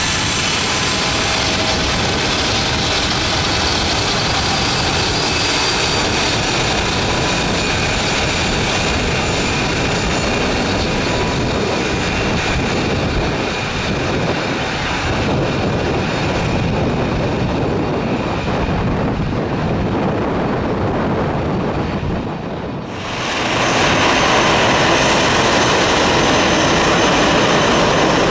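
Four-engined BAe 146 jet airliner taxiing, its turbofans running with a steady whine that eases somewhat after about fifteen seconds. About 23 seconds in, the sound switches abruptly to the louder, brighter jet noise of an Airbus A318 taxiing.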